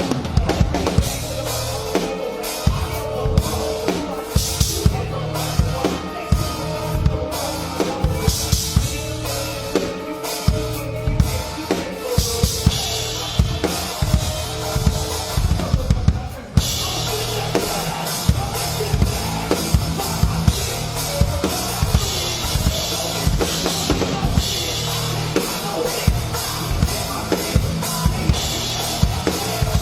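Full drum kit played hard with a band: rapid bass-drum strokes, snare and rimshot hits and washes of cymbals over the band's low, steady bass. There is a short break about 16 seconds in before the playing picks up again.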